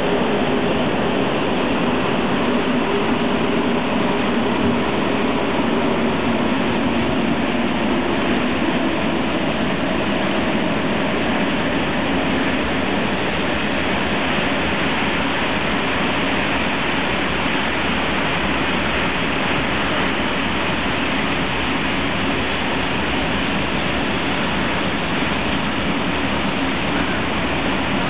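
Freight train passing at steady speed: two electric locomotives go by with a faint humming tone that fades after about a third of the way through, then ballast hopper wagons rolling by with a continuous rumble and rattle of wheels on rails.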